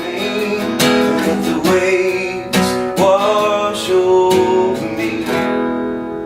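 Acoustic guitar strummed through the closing chords of a folk song. The last chord, about five seconds in, is left to ring out and fade.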